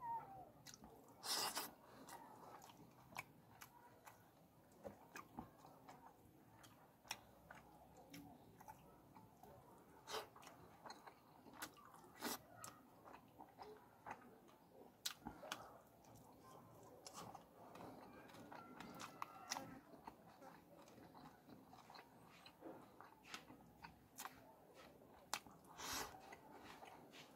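Quiet close-up eating sounds of fish curry eaten by hand: wet chewing and lip smacks, with frequent short, sharp clicks at irregular intervals.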